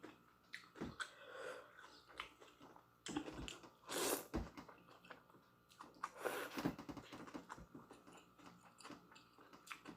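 A person eating instant noodles close to the microphone: soft chewing and wet mouth clicks, with two louder noisy bursts about four and six and a half seconds in.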